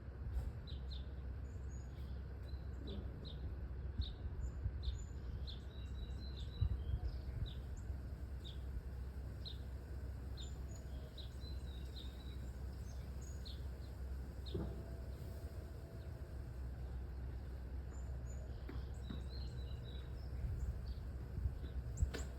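Small birds giving short, high chirps, many in quick succession through the first dozen seconds and a few more later, over a steady low rumble.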